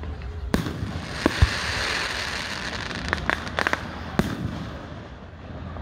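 Aerial fireworks bursting: several sharp bangs, with a quick run of cracking pops about three and a half seconds in, over a crackling hiss from the burning stars.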